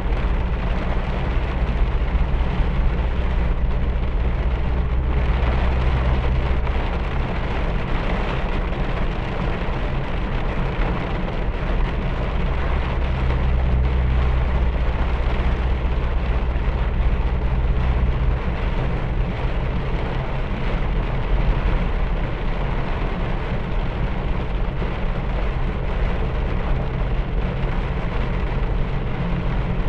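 Heavy rain pouring steadily, with a deep low rumble underneath that swells twice.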